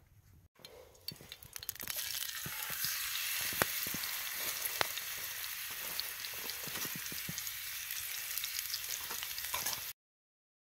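Cod fillet sizzling in a pan over a campfire, a steady frying hiss dotted with sharp pops. The sizzle builds over the first couple of seconds and cuts off abruptly near the end.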